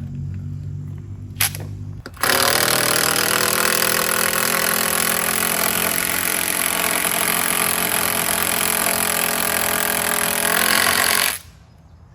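Power driver driving a lag bolt into a wooden post to fasten a temporary brace. It starts suddenly about two seconds in, runs steadily for about nine seconds, and cuts off near the end.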